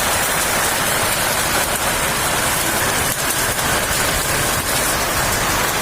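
Heavy rain pouring down, a loud steady hiss without a break.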